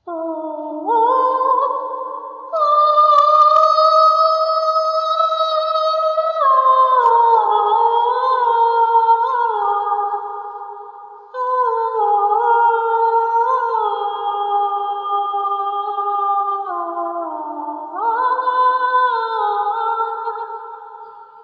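Wordless a cappella vocal harmony: several voice parts holding long notes that shift together in steps, in three long phrases.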